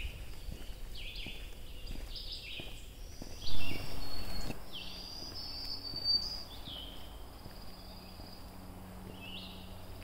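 Several songbirds calling, with short high chirps and quick trills repeating and one longer high whistled note a few seconds in. A loud, brief burst of noise at about three and a half seconds in stands out over the birdsong.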